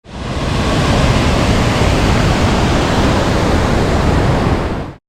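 Waterfall rushing, a steady roar of falling water that fades in and stops suddenly near the end.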